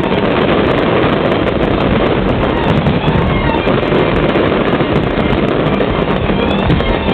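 Fireworks display going off in a dense, continuous barrage: a loud rolling wash of bangs and crackles with many quick pops through it.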